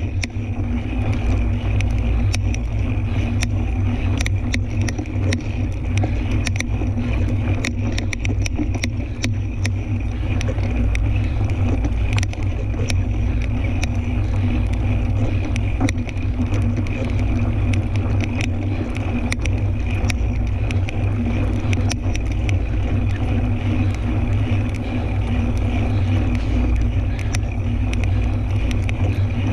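Riding noise from a fat-tire tandem mountain bike on a dirt trail: a heavy rumble of wind and tyres on the microphone, with frequent small clicks and rattles from the bike and trail throughout.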